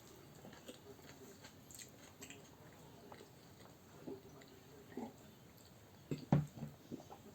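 Faint chewing and mouth sounds of someone eating, with a few louder short smacks about four, five and six seconds in.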